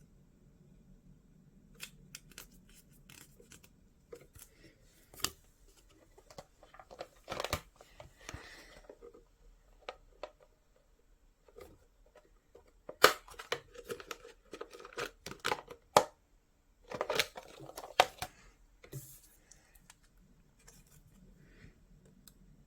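Close-up handling of small objects: irregular sharp clicks with short bursts of rustling and crinkling, busiest in two spells with a quieter gap between.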